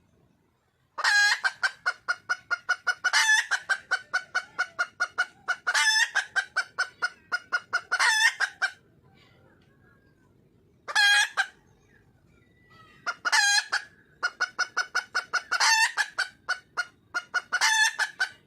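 Junglefowl hen calling to attract a male: fast runs of clucks, about four a second, each punctuated every couple of seconds by a louder, drawn-out squawk. There are two long runs with a brief burst between them.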